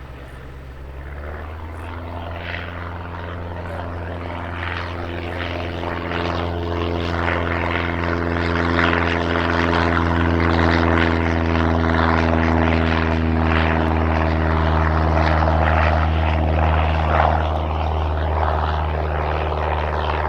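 Light propeller aircraft's piston engine running with a steady, unchanging drone. It grows louder over the first several seconds as the plane comes close, then stays loud.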